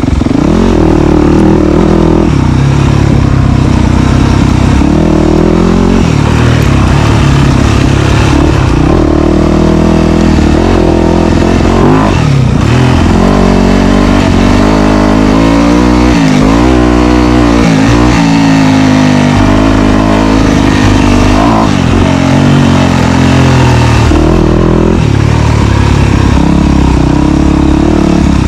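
Dirt bike engine running loud, its pitch rising and falling over and over as the throttle is opened and closed on the trail.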